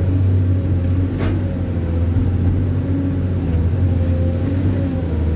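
Vehicle engine running steadily with a low hum, and one brief sharp click about a second in.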